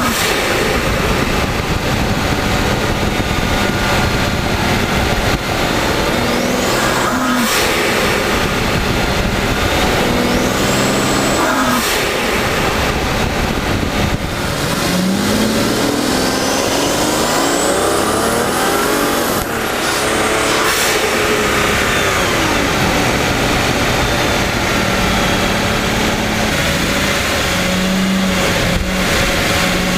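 Mercedes-Benz CL600's twin-turbo V12 pulling hard through repeated accelerations, the turbos spooling up with a rising whistle several times, the longest climbing for about four seconds. Each pull ends in a short, sharp burst as the boost is released through the blow-off valve.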